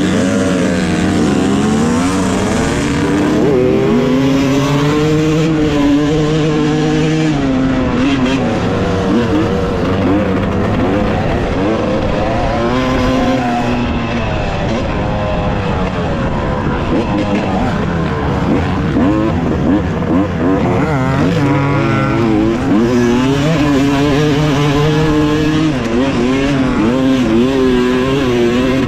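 Two-stroke dirt bike engine, a stock 2018 Yamaha YZ250X, ridden hard around a motocross track. Its pitch climbs and drops over and over as the rider opens and closes the throttle and shifts through the gears.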